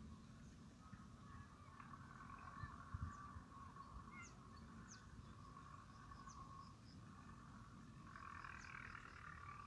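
Faint rural morning ambience of calling animals: a steady chorus at one pitch with a few short, high falling chirps scattered through it, and a louder stretch of calling near the end.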